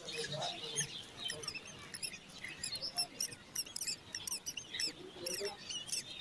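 Crested myna chicks cheeping: many short, high, squeaky calls, several a second and overlapping.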